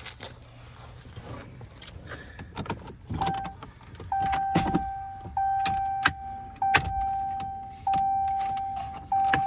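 Pickup truck's dashboard warning chime: a steady mid-pitched ding repeating about every 1.2 seconds, each one fading before the next, starting after a short first ding about three seconds in. Clicks and knocks of hands working on plastic trim come before and between the dings.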